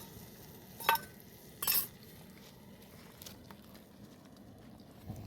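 Metal kitchenware being handled: a ringing clink about a second in, then a short scraping clatter just after.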